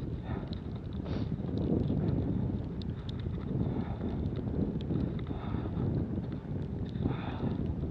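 Wind buffeting the microphone in a snowstorm, a steady low rumble, with scattered light clicks and a couple of brief hissing swells.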